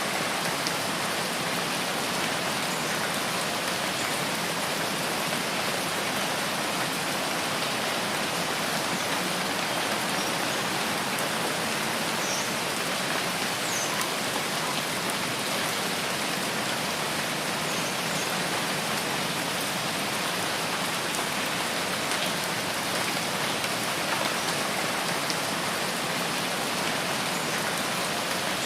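Steady rain falling without letup, an even hiss, with a few faint short high chirps about halfway through.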